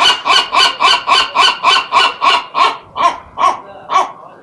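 Gull giving a rapid series of harsh calls, about three a second, that slow and space out near the end.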